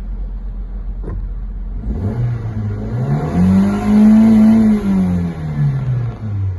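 Toyota Corolla AE112 four-cylinder petrol engine idling, then revved once: the pitch rises smoothly from about two seconds in, holds briefly, and falls back to idle near the end.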